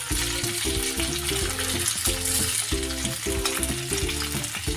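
Chicken wings shallow-frying in hot oil in a pan, a steady sizzle, over background music of short repeated notes.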